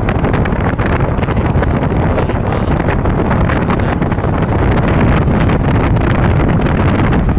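Steady wind noise buffeting the microphone on a Honda Supra X 125 motorcycle ridden at speed, with the bike's single-cylinder four-stroke engine running beneath it.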